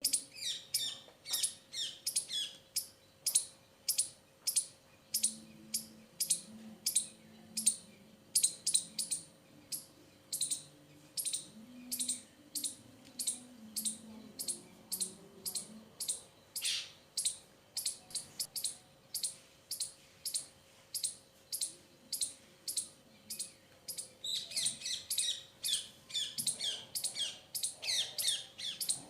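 A small bird chirping over and over: short, sharp, high chirps about two a second, coming in quicker clusters near the start and near the end.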